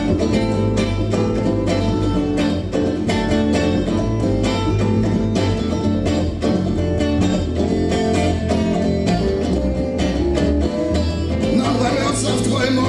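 Acoustic guitar strummed in a steady rhythm through an instrumental break in a song. Near the end, a wavering higher melodic line joins in.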